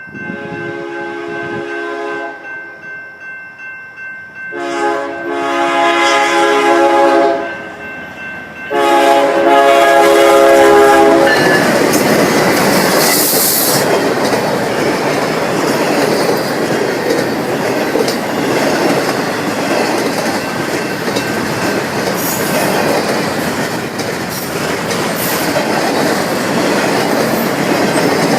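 BNSF intermodal freight train: the diesel locomotive's horn sounds three blasts of two to three seconds each, the last the loudest. Then the train passes close by, with a steady loud rumble and the clatter of wheels on the rails.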